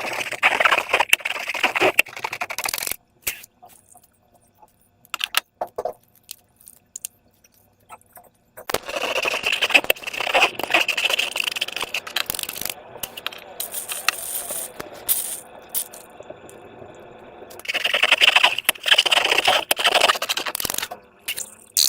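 Slime-making materials being handled and worked by hand: bursts of scraping, crackling and rattling with many small clicks, three louder spells separated by quieter ticking.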